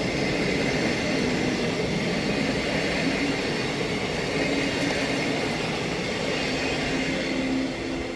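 Train running past on the line: a steady rumble with a few steady tones, easing off near the end as it moves away.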